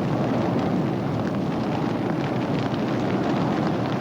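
Bushfire burning through eucalypt bush: a steady, heavy roar of flames with continuous crackling.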